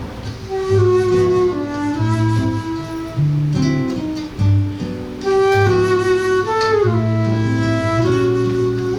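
Flute and seven-string guitar duo playing a waltz live. The flute carries a melody of held notes and short runs over the guitar's plucked bass notes and chords.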